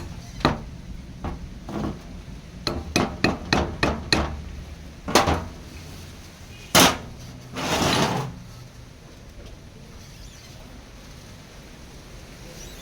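A series of sharp knocks and taps, like tool strikes on a workpiece. There are a few single knocks, then a quick run of about seven taps, then two louder strikes and a brief scraping rasp, after which only a low hum remains.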